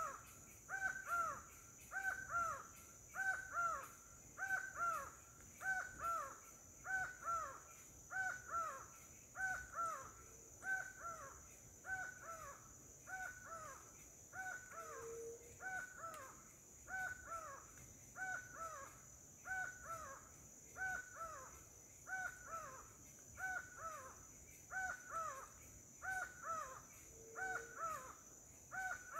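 A bird calling over and over in a steady rhythm, about one call a second. Each call is a pair of short, cawing notes that slide downward. A steady high-pitched hum runs behind it.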